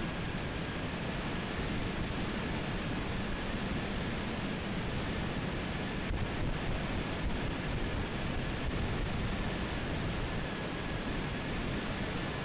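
Wind rushing over a motorcycle-mounted video camera's microphone at road speed, a steady hiss of wind and road noise with a faint, steady high whine running through it.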